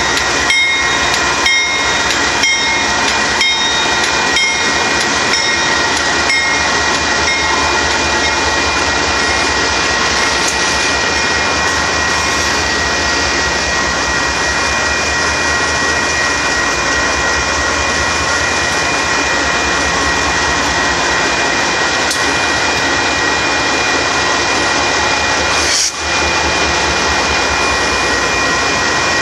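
Union Pacific gravel train cars rolling past, their wheels clicking regularly over rail joints at first with a steady high squeal, then a steady rushing noise as the cars keep going by.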